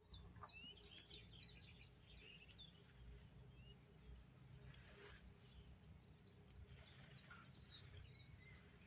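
Faint birdsong, several short chirps and a quick trill, over a low steady hum.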